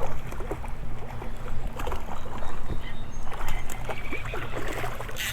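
River water splashing and lapping, over a steady low rumble.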